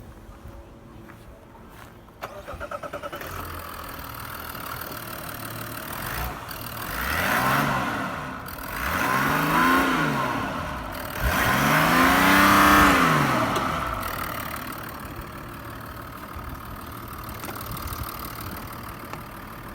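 Mazda CX-60's 3.3-litre inline-six diesel engine starting about two seconds in and idling. It is then revved three times, each time rising and falling back, with the third rev the longest and loudest, before it settles back to idle.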